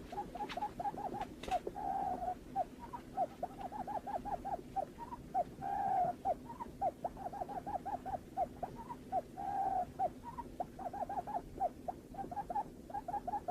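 Barred buttonquail call: a fast, even run of short hooting notes, about five a second, broken now and then by a longer drawn-out note. This is the call used as a lure to bring buttonquails in.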